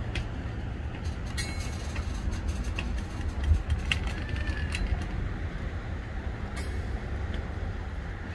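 Freight train's cars rolling past: a steady low rumble with many sharp clicks and knocks from the wheels and couplers, and a few short squeals.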